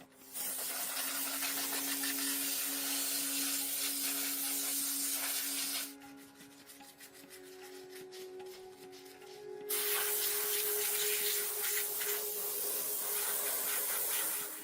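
A power tool working a surface over a steady motor hum, with loud abrasive hissing in two long stretches. Between them is a quieter pause of about four seconds, with light clicking while the hum goes on.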